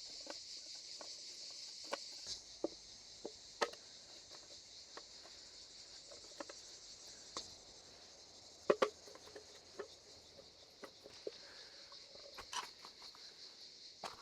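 Steady high-pitched chirring of insects in the forest, with scattered light clicks and knocks on top; the loudest knock comes a little under nine seconds in.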